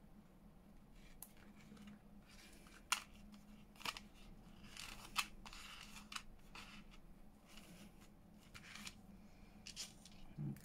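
Faint scattered clicks and short rustles of small craft materials being handled, a light metal chain and paper, with a few sharper ticks along the way.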